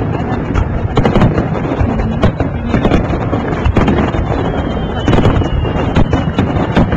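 Fireworks display: repeated bangs and crackling from aerial shells over a dense low rumble, with crowd voices and wind on the microphone.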